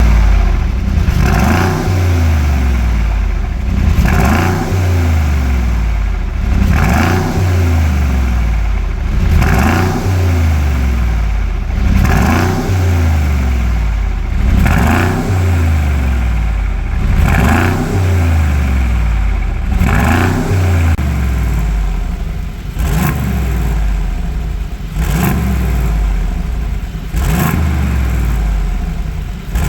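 Mercedes-AMG G63's twin-turbo V8 revving up and dropping back about a dozen times, roughly every two and a half seconds, through a custom valved exhaust with its valves open.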